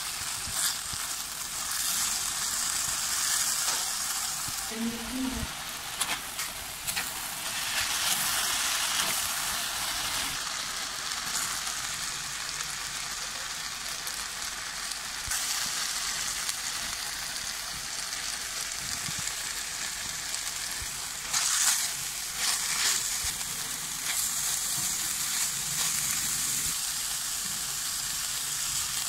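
Chicken strips frying in hot oil in a wok, a steady sizzle, as sauce, shredded cabbage and sliced peppers go in. A few short clatters break in, one about six seconds in, a cluster past the two-thirds mark and more near the end.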